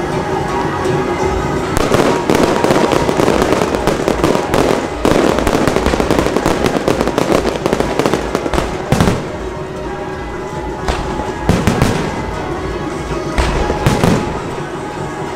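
Aerial fireworks going off in quick succession, a dense continuous crackling of many small bursts, with a few heavier bangs standing out in the second half.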